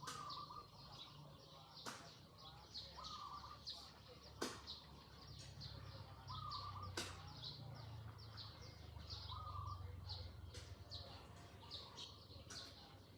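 Rural outdoor ambience: many small birds chirping busily, with a short lower call repeating every two to three seconds and a few sharp sweeping notes, over a faint low steady rumble.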